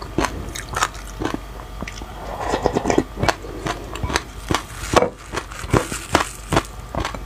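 Close-miked chewing: seeds crunching and crackling in the mouth, an irregular run of sharp crackles several times a second.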